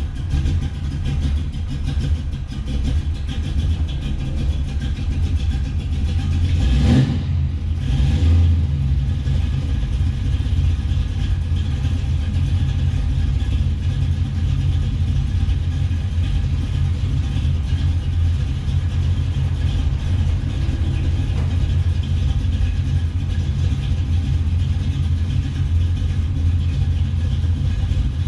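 Ford 460 big-block V8 with a twin tunnel-ram intake and twin Holley carburettors running with a steady, deep rumble. There is a brief louder swell about seven seconds in.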